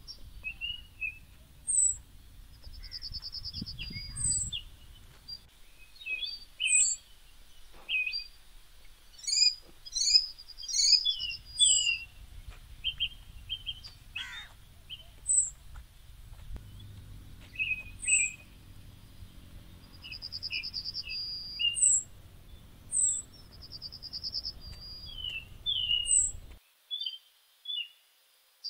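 Several birds chirping and calling: a short, high, falling chirp recurs every few seconds among other brief chirps and a few rapid trills, over a low steady rumble that cuts off near the end.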